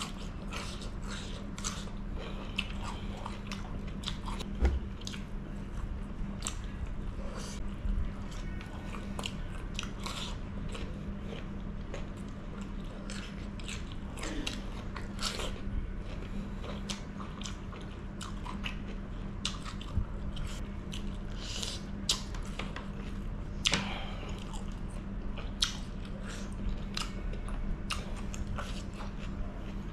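Close-up eating sounds: crisp bites and crunchy, wet chewing of raw cucumber, many short crackling clicks coming irregularly, over a steady low hum.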